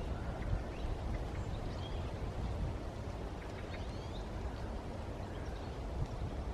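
Outdoor ambience: a steady low rumble with a few faint bird chirps, about a second and a half in and again around four seconds in.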